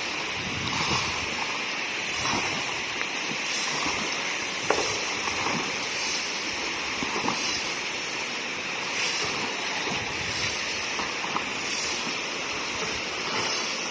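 Steady rushing water with small scattered clicks and splashes, one sharper tick about five seconds in.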